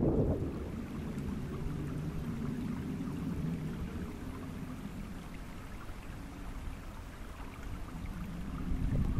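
Wind blowing on the microphone beside a lake, easing through the middle and gusting up again near the end, with the lake water splashing and lapping underneath.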